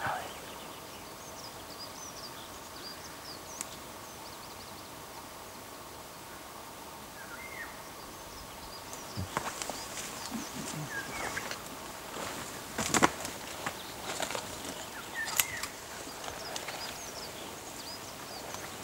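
Wild birds calling over a faint steady background: scattered short high chirps and a few brief rising-and-falling calls. Several sharp clicks or knocks come in the second half, the loudest about two-thirds of the way through.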